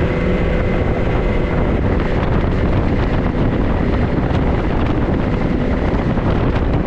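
Steady running noise of a vehicle on the move, engine and road noise together, with wind noise on the microphone.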